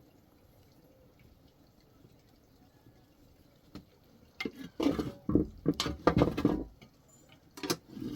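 Water splashing and sloshing in a run of irregular bursts, starting about halfway through, with two more near the end.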